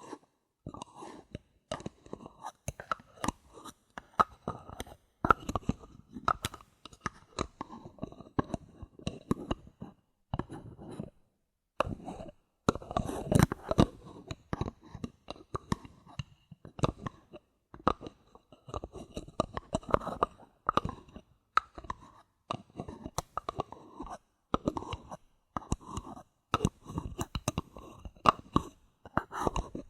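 Bottle caps being handled and tapped, giving dense, irregular clicks and crackly scrapes, with brief pauses about ten and twelve seconds in.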